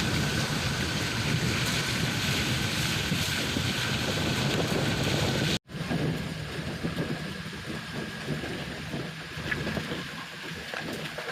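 Rushing water of a waterfall, a steady dense noise. It cuts out abruptly for an instant about five and a half seconds in, then comes back somewhat quieter.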